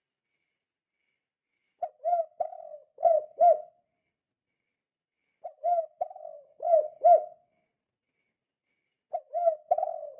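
Spotted dove (tekukur) cooing in the gacor 'kuk 2' song type, a call used as a lure for other doves. Three phrases come a few seconds apart, each a run of short low coos ending in two louder notes.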